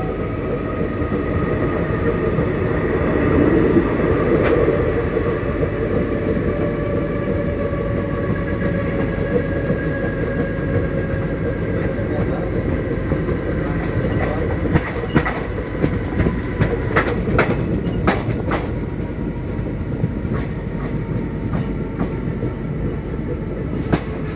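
Passenger train running along the track: a steady rumble with a faint whine. From a little past halfway come a series of sharp clacks from the wheels over the rail joints.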